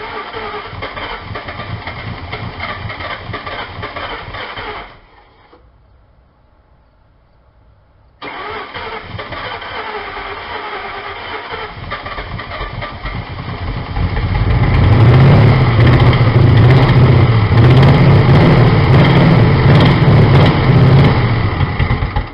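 2000 Ford Mustang GT's 4.6-litre V8 being started and run on starting fluid. It runs in two stretches, cut off abruptly about five seconds in and back about three seconds later, then gets much louder in the second half with the revs rising and falling.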